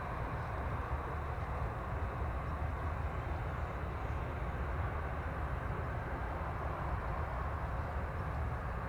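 Steady low rumble of distant jet engines, even in level throughout.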